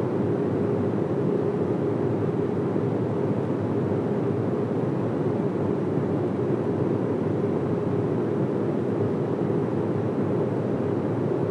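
Boeing 737 cabin noise in cruise: a steady, even rush of engine and airflow sound, weighted to the low end, with a faint constant hum running through it.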